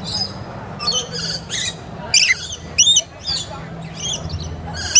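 Lorikeets giving short, high-pitched screeching calls in quick succession, about one every half second, over a low murmur of voices.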